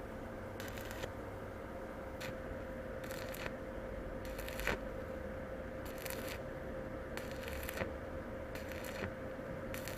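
Stick-welding arc crackling in short irregular spells from a repaired single-board mini inverter welder, welding a broken steel chair frame, over a steady tone.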